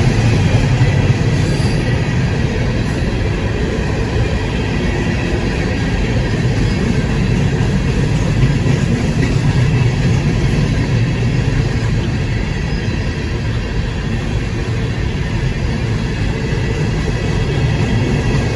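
CSX freight train rolling past, its railcars making a steady, even noise on the rails.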